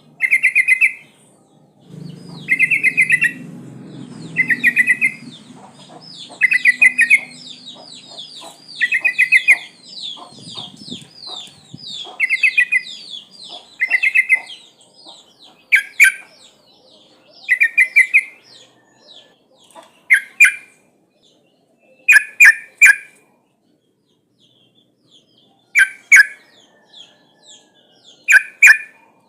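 Trucukan (yellow-vented bulbul) calling: short bubbly phrases repeated every second or two, with a fast run of high descending chirps behind them through the first half, then sparser phrases with pauses. It is a female's call to a male, used as a lure for wild birds.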